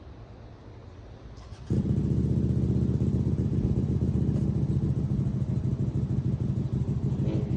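A small motorcycle engine starts abruptly a little under two seconds in, then runs steadily with a fast, even pulsing beat.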